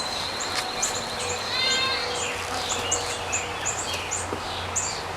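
Wild birds chirping: short high chirps repeating every few tenths of a second, with a brief fast trill about two seconds in, over a steady low hum.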